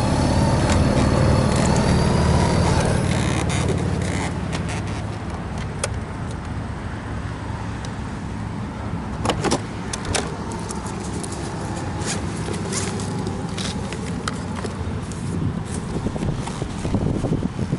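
Honda Gold Wing motorcycle engine running steadily, then dying down about three seconds in. A series of sharp clicks and clanks follows.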